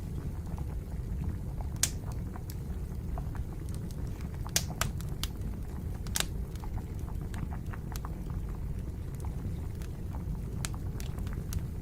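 Wood fire crackling in a small stove: scattered sharp pops at irregular intervals over a steady low rumble.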